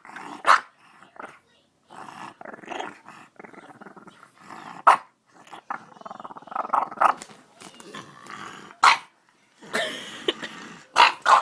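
Young French bulldog making its funny grumbling play noises, broken by four short, sharp barks spaced about four seconds apart.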